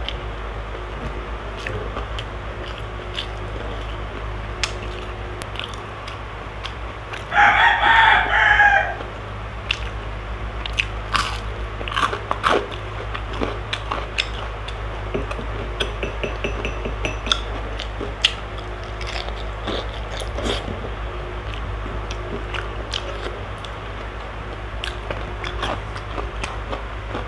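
Close-up mouth sounds of a person biting and chewing a fried okoy fritter and rice, with small clicks and smacks over a steady low hum. A rooster crows once about seven seconds in, a call of about a second and a half that is the loudest sound here.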